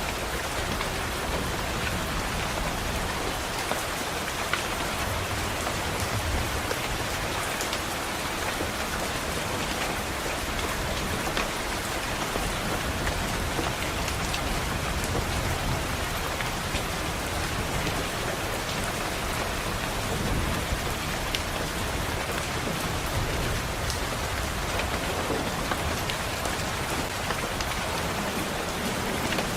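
Steady heavy rain falling on a window, an even dense hiss with scattered sharp ticks.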